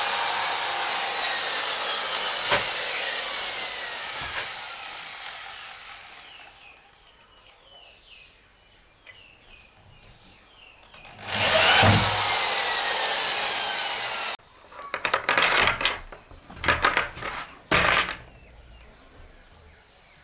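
A power tool working wood twice: first winding down slowly with a falling whine, then run again for about three seconds before cutting off suddenly. Then a run of sharp knocks and clatter of wood being handled.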